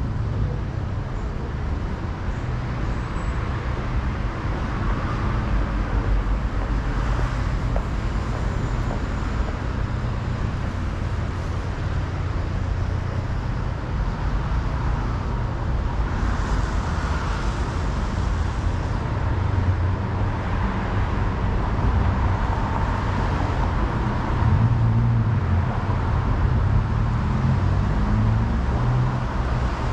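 City street traffic: a steady rumble of engines and tyres, with several vehicles passing one after another and swelling up and fading away, a couple of them louder about halfway through and again later on.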